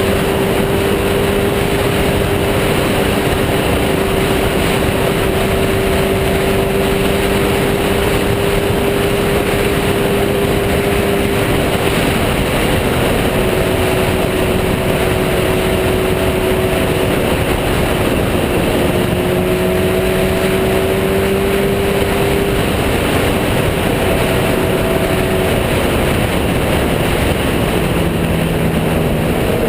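Sport motorcycle engine running at a steady cruising speed, its pitch holding nearly even with small drifts, buried under loud, constant wind and road rush.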